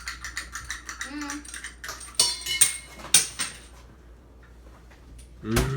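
Tableware clattering: many small clicks, then a few bright clinks with a short ring about two seconds in. Near the end comes a sharp thump, then a held vocal sound.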